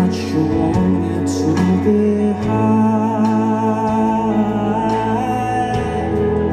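A rock band playing live, with a full band sound and a held, wavering melody line over it.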